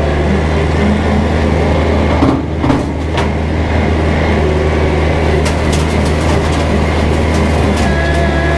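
Kubota tractor's diesel engine running steadily while pulling a bush hog rotary mower through brush, with scattered sharp clicks and cracks over it and a brief dip about two and a half seconds in.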